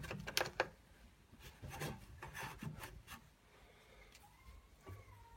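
Handling noises: a run of short clicks and knocks with light rubbing over the first three seconds, then quieter, with a faint falling whistle near the end.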